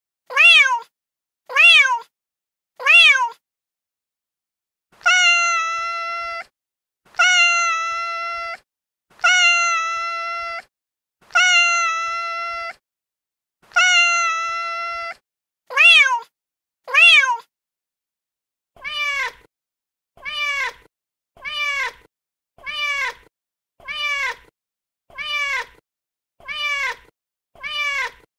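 Recorded domestic cat meows played from a cat-sound soundboard app, identical clips repeated with silent gaps. First come four short meows about a second apart that rise and fall in pitch, then four longer, drawn-out meows held on one pitch. After two more short ones, a run of about nine short meows follows near the end.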